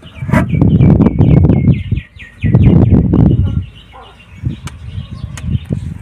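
A bird calling in a quick run of short, falling chirps, about six a second, over two loud low rumbles a second or so long each. A few sharp clicks come near the end.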